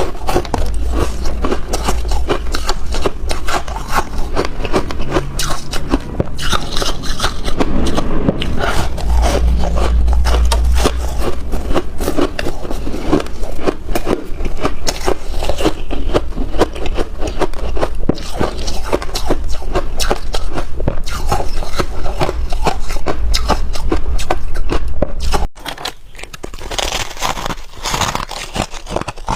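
Freezer frost being crunched and chewed close to the microphone: a dense run of crisp crackling crunches over a deep rumble. Near the end the rumble stops and the crunching goes quieter.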